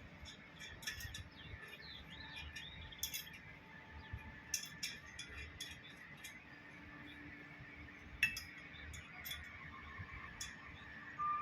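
Scattered light metallic clinks and clicks of small metal pump parts being handled, the sharpest about eight seconds in, with faint bird chirps in the background.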